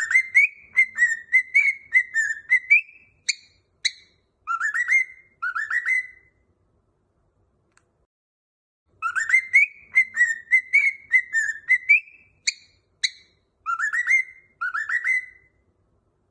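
A high whistled melody played as a song for a cockatiel to learn. A quick run of warbling notes is followed by two short notes and two rising slurred notes, and the same phrase repeats about nine seconds in.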